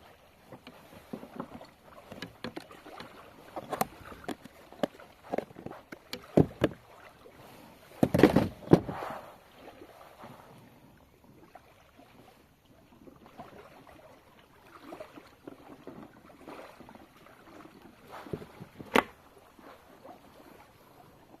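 Irregular knocks and clicks of gear and hands against a fishing kayak's hull, with a louder thump or splash about eight seconds in and a sharp click near the end.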